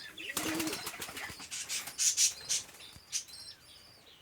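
Pigeon wings flapping in a quick run of claps, with a short coo near the start.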